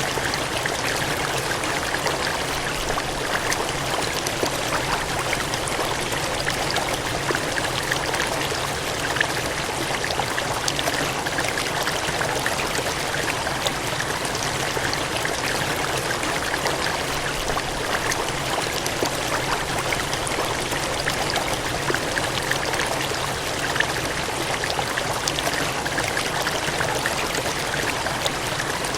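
Gushing, cascading water: a steady, even rush of flowing water.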